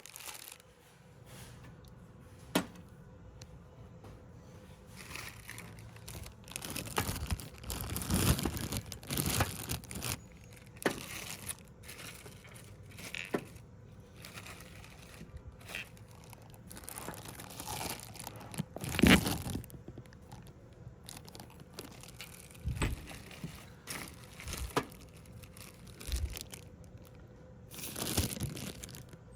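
Irregular rustling and crinkling, with a sharp click about two and a half seconds in and a louder rustle about two-thirds of the way through.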